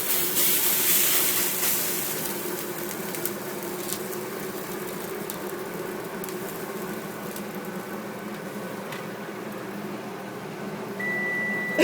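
A loud hiss in the first two seconds fades into a steady humming whir of a kitchen appliance. About a second before the end, one long steady electronic beep starts.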